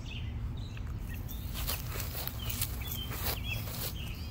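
Small birds chirping on and off over a steady low rumble, with a few short rustles or clicks around the middle.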